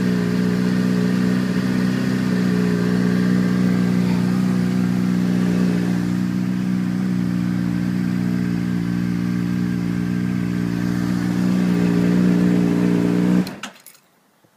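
2008 Honda CBR600RR's inline-four engine idling steadily through a Yoshimura RS-5 slip-on exhaust, then shut off, cutting out suddenly near the end.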